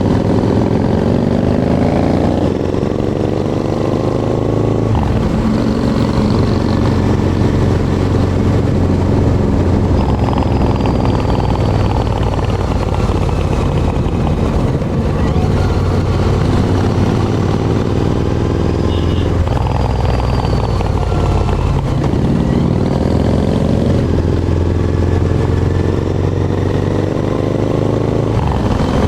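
Harley-Davidson motorcycle engine under way, accelerating up through the gears: its pitch climbs and drops back at each shift twice in the first five seconds, then holds steady while cruising, and climbs through the gears again from about twenty seconds in.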